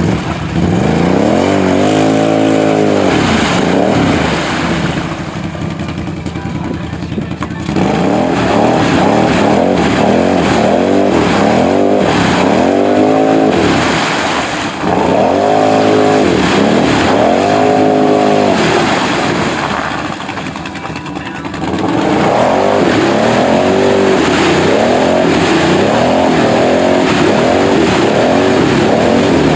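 An off-road vehicle's engine revving hard again and again, its pitch rising and falling with each burst of throttle, dropping lower briefly about two-thirds of the way through before climbing again.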